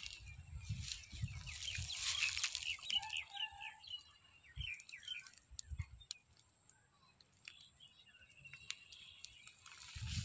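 Birds chirping outdoors, a quick run of short calls about three seconds in and a few scattered chirps after, over low bumps and rustling in the first couple of seconds.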